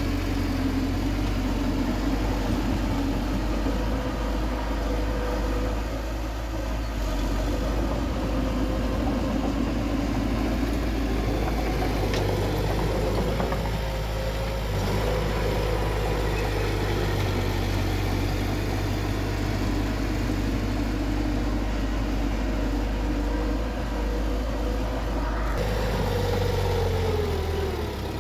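Bulldozer's diesel engine running steadily, its note dropping near the end.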